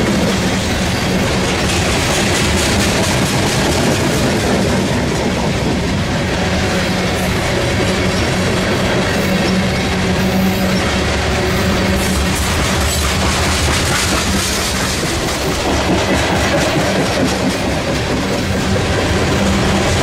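Loaded coal train's steel-wheeled coal cars rolling past: a loud, steady rumble of wheels on rail with a continuous run of clicks as the wheels cross rail joints, over a steady low hum.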